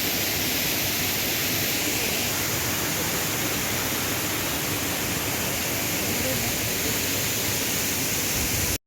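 Steady rushing of the Bambarakanda waterfall, a dense even wash of falling water. It cuts out abruptly for a moment near the end.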